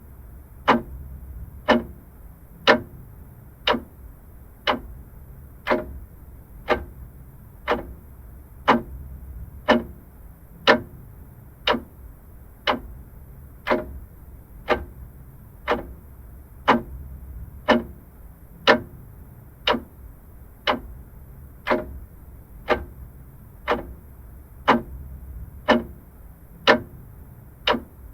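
Vintage mechanical clock ticking steadily, about one tick a second.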